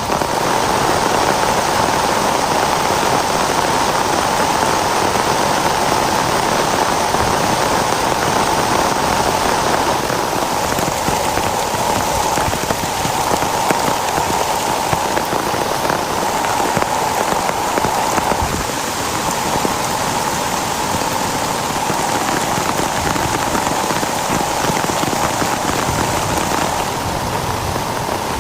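Heavy rain falling steadily, a dense, even, loud patter.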